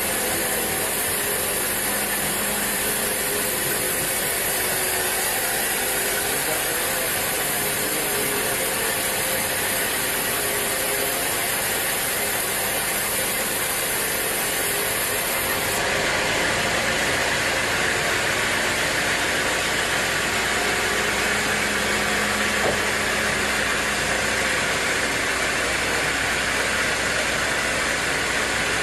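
Sawmill machinery running with a steady mechanical noise, which shifts abruptly to a brighter, fuller sound about halfway through.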